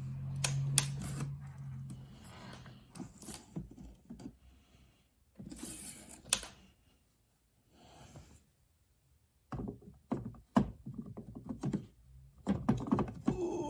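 Portafilter and tamping gear of a De'Longhi Specialista Prestigio espresso machine being handled after grinding: scattered knocks, clicks and rubbing, with a steady low hum in the first couple of seconds.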